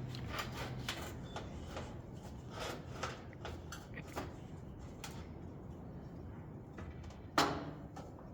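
Scattered light clicks and knocks of heater parts being handled and fitted back together, with one louder knock about seven seconds in.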